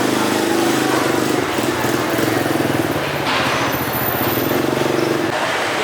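An engine running steadily, then stopping about five seconds in.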